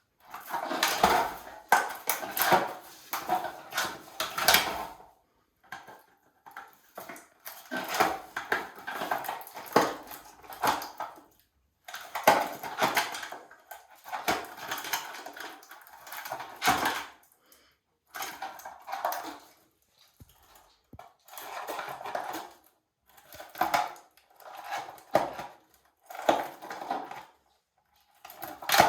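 An African grey parrot playing with a toy: bursts of clattering and crunching, each a second or two long, with short pauses between them.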